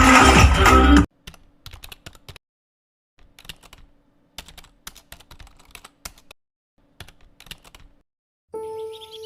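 Music cuts off about a second in, giving way to irregular runs of quick, light clicks separated by dead silences. Near the end, birds start chirping over soft music.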